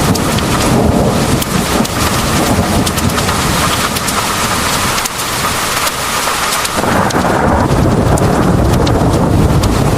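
Heavy rain pouring steadily, with sharp drop ticks, under a low rolling rumble of thunder. The rumble drops away for a couple of seconds in the middle and swells back about seven seconds in.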